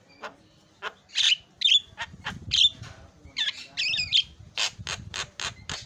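Javan myna singing a varied chattering song: short whistled notes and harsh squawks, then a quick run of sharp clicking notes, about four a second, in the last second and a half.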